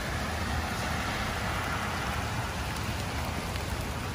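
Rain falling steadily on leaves and paving, with a low rumble underneath.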